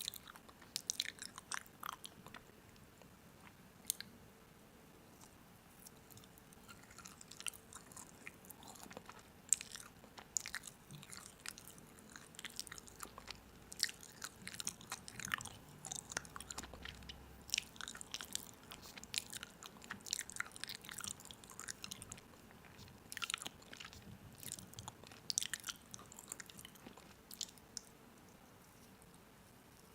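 Crisp food being bitten and chewed close to the microphone: irregular crunches and small crackles, busier from about eight seconds in.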